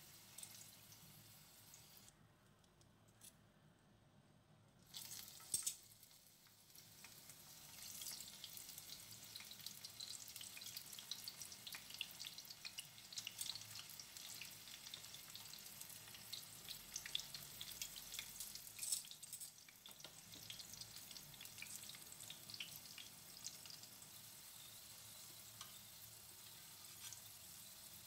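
Kabocha pumpkin slices shallow-frying in a pan of oil: a faint crackling sizzle that grows denser about eight seconds in, as more slices are added. A couple of sharp clicks stand out, about five seconds in and again near the middle.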